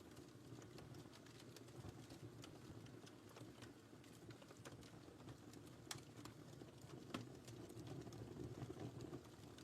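Wood fire in a fireplace crackling faintly over a low steady rumble of the flames, with scattered small pops and two sharper ones about six and seven seconds in.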